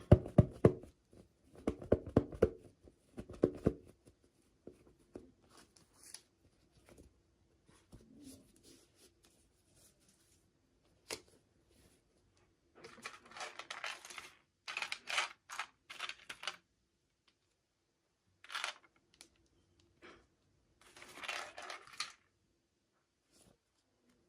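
Doll packaging being handled and opened by hand: a run of dull knocks in the first few seconds, then several short bursts of tearing and crinkling of the wrapping.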